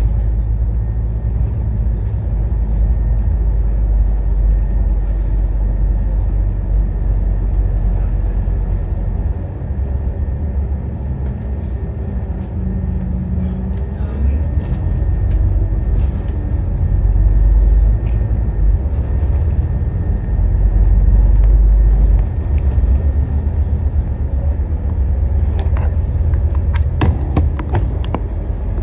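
Scania N230UD double-decker bus's five-cylinder diesel engine running under way, heard on board as a deep rumble that swells and eases several times as the bus pulls away and slows. A cluster of sharp rattles and clicks comes near the end.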